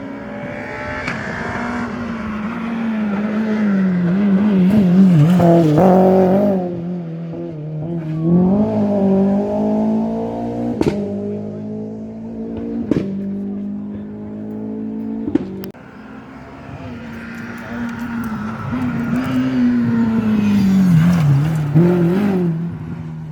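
Rally car engine at full throttle on a stage, its pitch repeatedly climbing and dropping through gear changes. The sound swells loudest twice, and there are a few sharp cracks in the middle.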